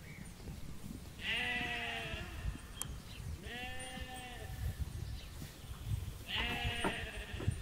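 Sheep bleating three times, each a long, wavering call, a couple of seconds apart, over a low background rumble.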